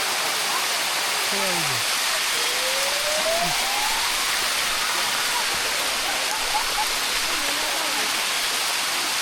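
Steady rush of shallow water running down the limestone cascades of the Bua Tong sticky waterfall, heard close up.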